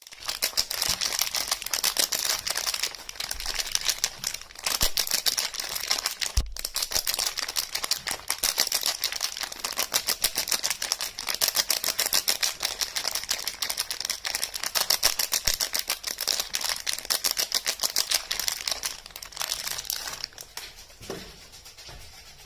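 Soap packaging being unwrapped by hand: dense, rapid crinkling and crackling that thins out near the end.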